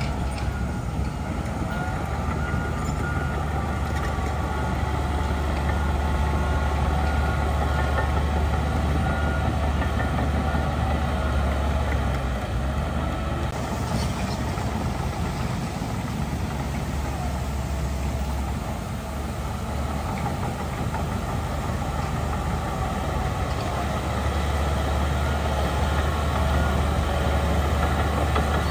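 Heavy diesel earthmoving machinery running steadily with a deep engine drone, easing briefly about two-thirds of the way through and then building again.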